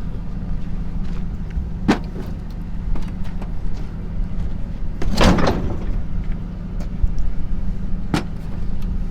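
Dodge pickup's engine idling steadily while it is hitched to a horse trailer, with three sharp knocks of the hitch; the loudest comes about five seconds in and rattles briefly.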